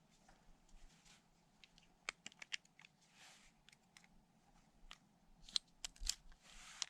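Faint, scattered clicks and small snaps with two short rustles, from dry kindling and bark being handled and laid for a campfire.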